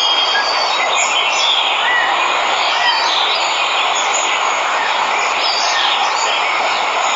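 Waterfall: a steady rush of falling water, with birds chirping now and then over it.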